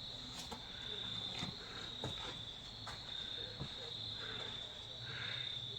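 Steady, high-pitched chorus of insects trilling in the woods, holding one pitch throughout, with a few faint clicks.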